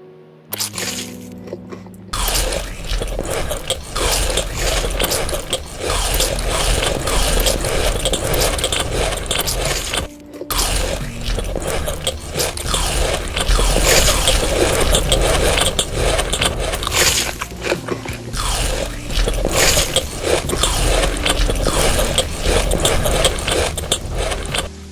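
Close-miked crunchy biting and chewing of food, dense and continuous with a brief pause about ten seconds in.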